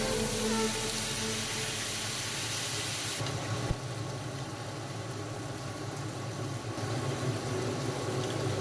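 Steady hiss of food cooking in a pan, with a faint low hum underneath.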